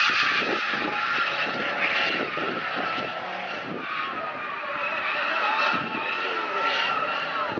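A car's engine revving hard while its tyres squeal without a break, as in drifting or doing donuts.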